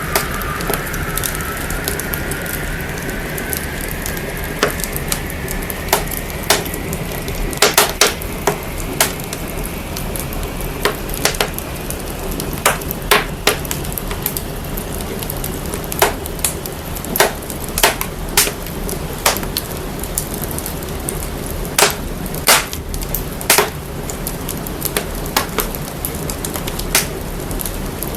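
Fire crackling and popping, the recording put through heavy processing: sharp irregular pops over a steady deep rumble, with a filtered hiss slowly rising in pitch over the first dozen seconds.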